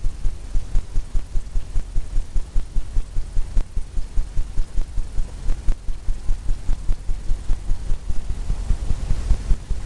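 Paint tapped on to a stretched canvas, the canvas giving a dull, low thump at each tap, about four taps a second in a steady rhythm.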